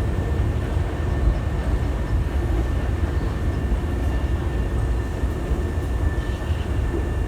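Hankyu electric train running at the station platform: a steady low rumble with a faint steady whine.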